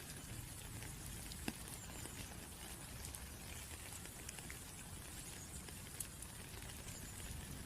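Rain falling, a steady hiss with scattered drop ticks; a sharper drop about a second and a half in.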